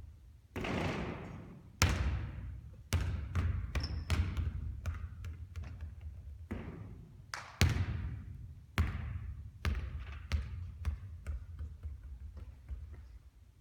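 A basketball bouncing on a hard court floor: a series of irregular bounces, several sharp and loud, others lighter and quicker, with two short rushing swishes among them.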